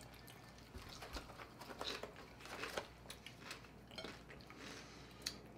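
Faint chewing of food, with scattered small crunches and clicks at irregular intervals.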